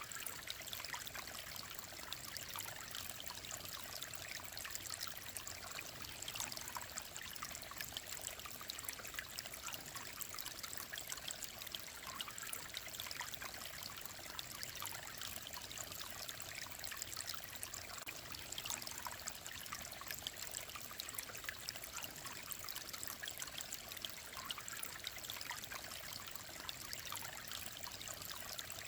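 Clear mountain stream flowing and trickling over rocks: a steady, even babble of water.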